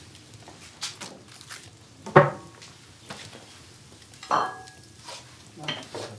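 Metal cooking utensils knocking and clinking against a pan or griddle: four sharp strikes, the loudest about two seconds in, one of them leaving a short metallic ring.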